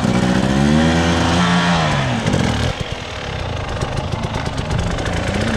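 Off-road motorcycle engine revved up, its pitch holding high and then falling away about two seconds in, then running at low revs with an uneven, rattly putter before it starts to rise again near the end.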